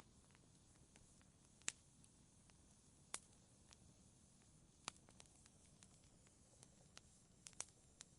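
Wood fire crackling faintly: sharp pops and snaps at irregular intervals, a few clearly louder than the rest, over a soft steady hiss.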